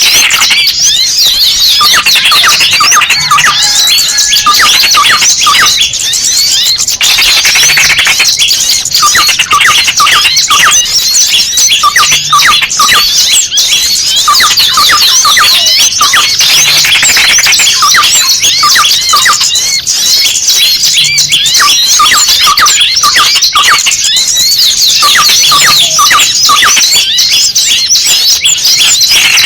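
A flock of small songbirds chirping and squeaking frantically all at once, mixed with the distress cries of a small bird that has been caught. This is a bird-lure (pikat) recording. The high-pitched calls pile densely on top of each other without a pause.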